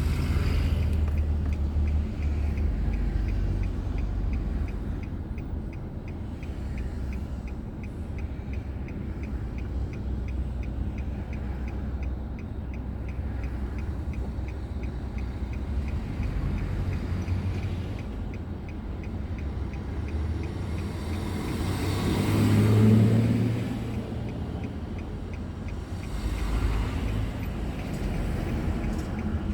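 Car driving, heard through a dashboard drive recorder: a steady low rumble of engine and tyres on the road. About three quarters of the way through a louder vehicle passes close by and fades away, and faint regular ticking runs underneath.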